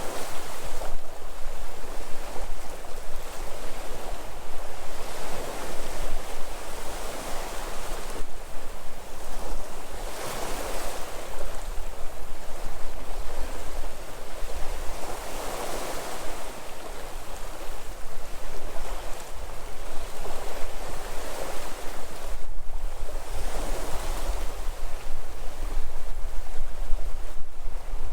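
Sea waves breaking and washing ashore, surging about every five seconds, with a low rumble of wind on the microphone.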